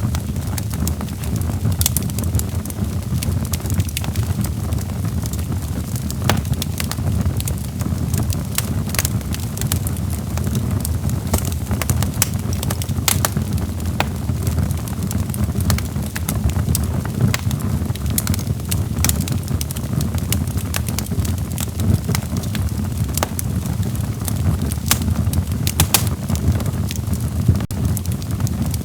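Log fire burning in a fireplace: a steady low rumble with irregular sharp crackles and pops of the burning wood.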